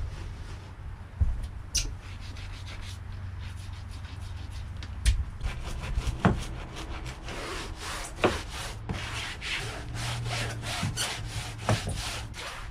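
Stiff deck scrub brush scrubbing a boat's marine-mat deck in quick back-and-forth strokes, about two to three a second, with a few knocks in between.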